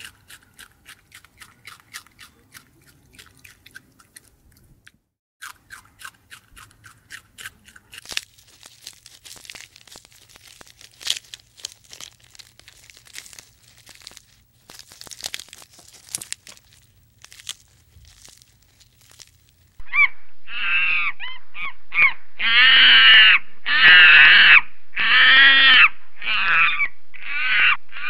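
Rabbits chewing leafy greens, a quick run of small crunching clicks, followed by rustling and chewing as giraffes browse leaves. About twenty seconds in, a series of loud, high-pitched monkey calls rises and falls, each call a few tenths of a second to a second long.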